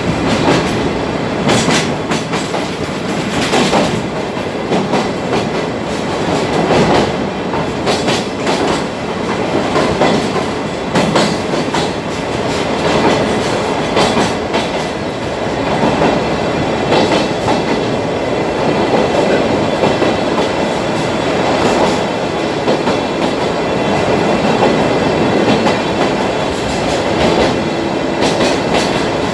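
Sagano trolley train running along the track, heard from aboard: a steady rumble of wheels on rail with recurring clickety-clack as the wheels cross rail joints, often in pairs.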